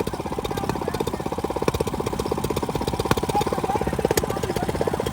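Small single-cylinder minibike engine idling, a steady rapid putter of evenly spaced firing pulses.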